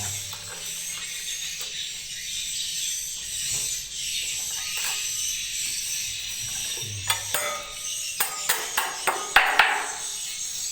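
Dense, high-pitched twittering of edible-nest swiftlets, steady throughout, with a run of sharp clicks and knocks in the second half.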